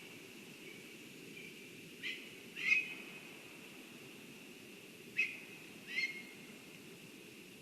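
A bird giving short, sharp call notes in two pairs, over a faint steady outdoor background.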